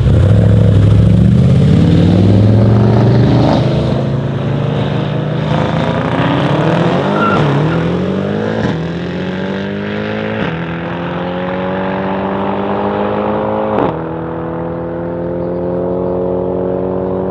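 High-performance car accelerating hard, its engine note climbing and dropping back with several quick upshifts, slowly fading as it pulls away.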